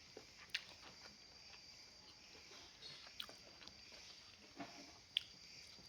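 A person faintly chewing chicken momos, with a few short, sharp mouth clicks.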